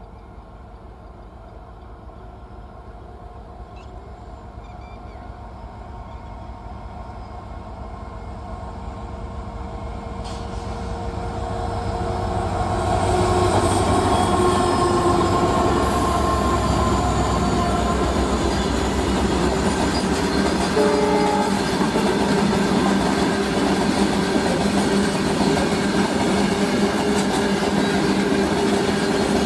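Indian Railways diesel train approaching and running past. Its engine throb and rail noise grow steadily louder over about the first thirteen seconds, then stay loud and steady as it passes.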